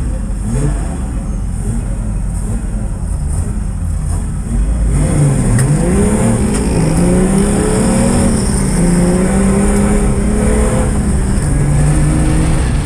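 Nissan Patrol Y60's engine heard from inside the cabin, running at lower revs at first, then accelerating hard from about five seconds in. Its pitch climbs in several steps and drops back between them, over a steady rumble of tyres and chassis.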